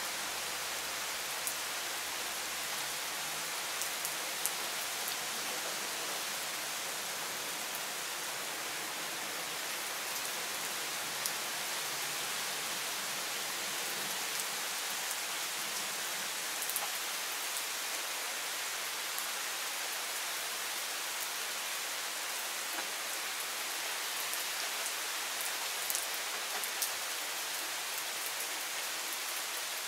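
Steady rain from a thunderstorm shower: an even hiss with scattered sharp ticks of drops landing close by.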